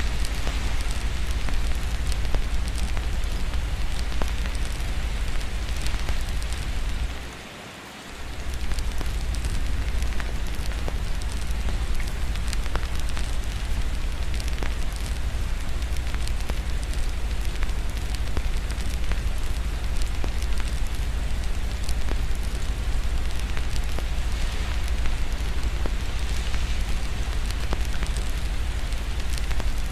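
Steady rain mixed with a crackling fireplace: an even hiss dotted with many small sharp crackles over a constant low rumble. About seven seconds in, the whole sound dips for roughly a second, the rumble dropping out, then comes back.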